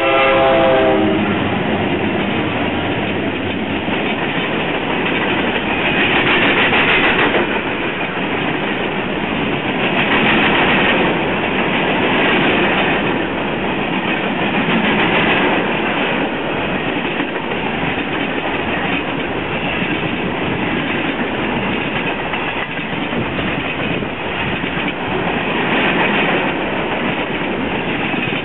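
The lead locomotive's horn sounds and cuts off about a second in. Then the diesel locomotives and a long string of covered hopper cars roll past close by with a steady wheel-on-rail noise.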